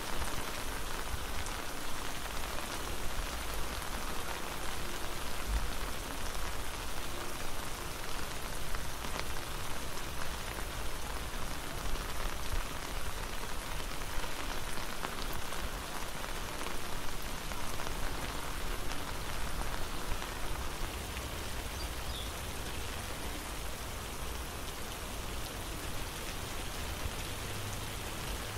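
Steady rain falling on an umbrella held overhead: an even hiss of many small drop ticks that does not let up.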